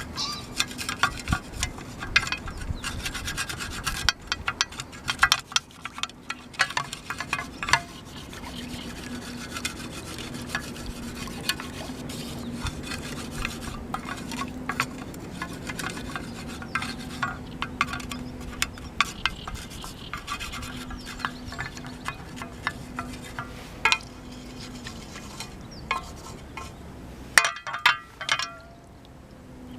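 Rubbing and scraping with many small clicks and light clinks, as of camp cookware being handled over a mini fire pit, with a few sharper knocks near the end.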